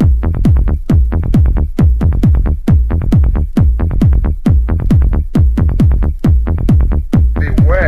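Hard techno track: a fast, steady kick-drum beat, each hit dropping in pitch, under crisp high percussion clicks. A voice sample comes in near the end.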